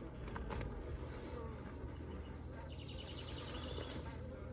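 Steady low hum of honeybees at the open hive. About halfway through, a bird sings a trill of rapid repeated high notes for about a second and a half.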